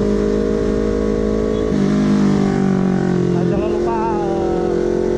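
Honda CBR250RR motorcycle engine and exhaust running at a steady note while riding. The tone shifts a little from about two seconds in to three and a half seconds in, then settles back.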